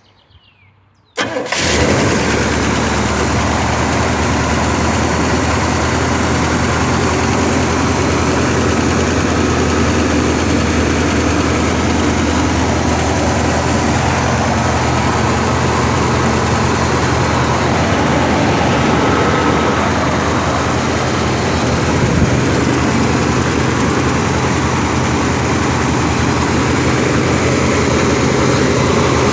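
Cold start of a stock 1983 Chevrolet 454 big-block V8 on its factory Quadrajet carburettor: it fires about a second in and settles into a steady, even idle. The owner judges it sound, with no knocks or pinging.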